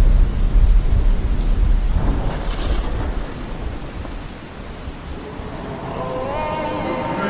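Rain with a low rumble of thunder that fades away over the first few seconds, with music coming back in near the end.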